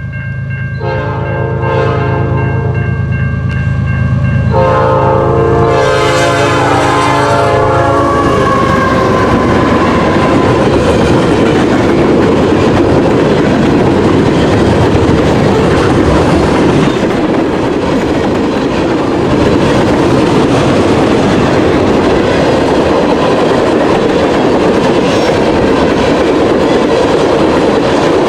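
Freight locomotive's Nathan P5 five-chime air horn sounding two long blasts over the diesel engine's drone, the chord dropping in pitch as the locomotive passes. The train's cars then rumble and clatter past steadily.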